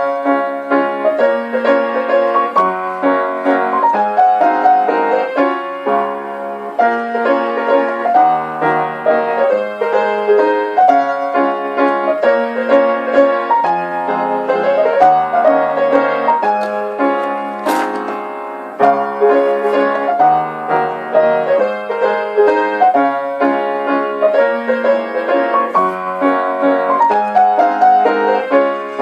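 Background piano music: a solo piano playing a gentle melody over chords, with no rain or footsteps to be heard above it.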